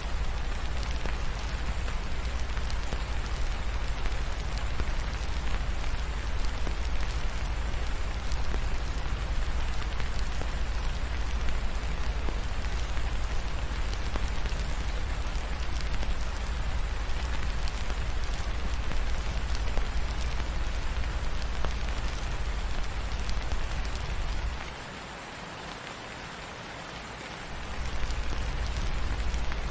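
Steady rain on a surface, an even hiss with a deep low rumble underneath. The low rumble drops away for about three seconds near the end.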